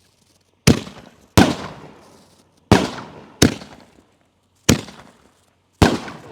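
5-inch canister firework shells going off in a fired sequence: six sharp bangs at uneven intervals, each trailing away in a long echo.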